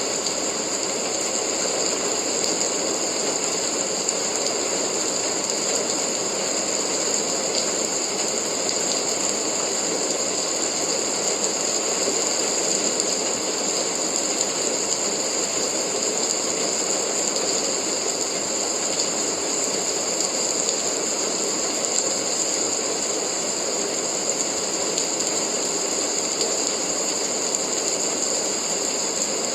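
Steady rain, a dense, even patter and hiss that holds unchanged throughout.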